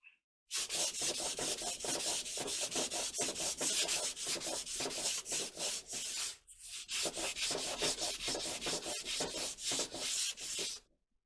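Hand sanding with sandpaper in quick, rhythmic back-and-forth strokes, rubbing away excess dried glue. The strokes pause briefly about six and a half seconds in and stop shortly before the end.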